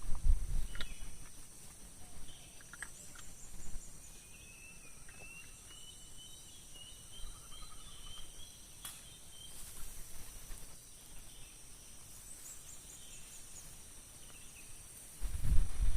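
Forest ambience: a steady high drone of crickets or other insects, with a bird giving a long warbling series of notes that climbs slowly in pitch through the middle, plus a few short chirps. Low rumbling thumps come at the very start and again near the end.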